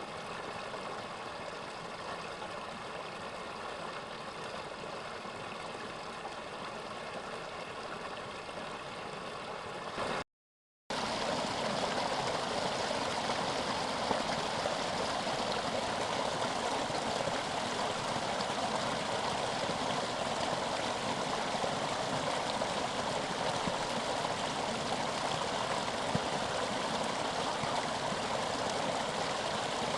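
Mountain stream running with a steady rushing wash of water. It cuts out briefly about ten seconds in, then comes back louder and fuller.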